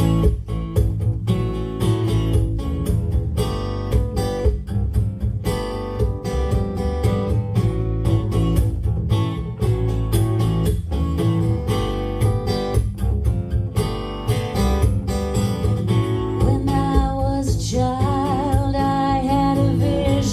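Live song introduction: guitar strumming chords at a steady rhythm. Near the end a sustained melody line with vibrato comes in over the chords.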